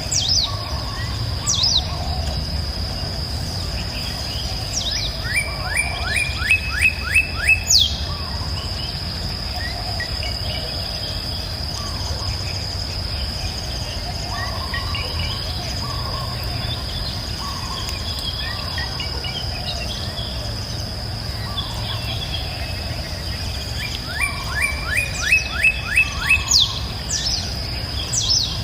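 Songbirds singing over a steady, high insect drone and a low rushing of river water. Twice a bird gives a quick run of about six short rising notes that grow louder, among scattered short chirps.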